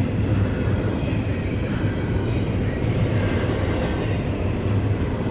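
Norfolk Southern intermodal double-stack train rolling past, a steady low rumble of wheels and cars on the rails.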